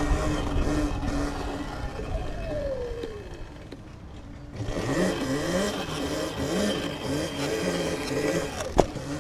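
Sur-Ron electric dirt bike's motor whining. Its pitch falls away and dips about four seconds in, then rises and falls over and over as the throttle is worked. A sharp click near the end.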